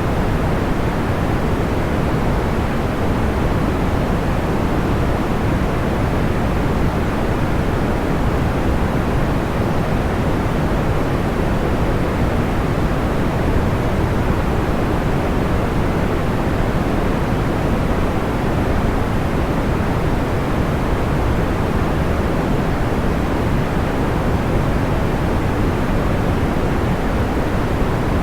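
Steady white-noise sleep sound, a deep, dull hiss that stays even throughout with no crackles or pops standing out.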